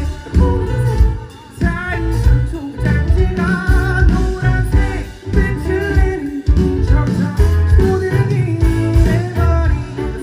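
Live pop-rock band performance heard through a concert PA: a singer's voice over electric guitar, bass and drums, with a steady beat.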